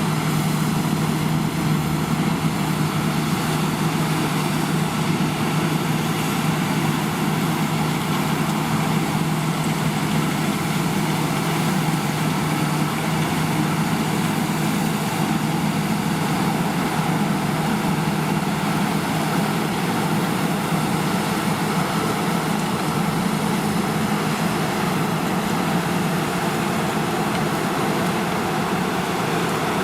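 Heavy farm machinery at harvest, its diesel engine and workings running steadily with an unchanging low hum.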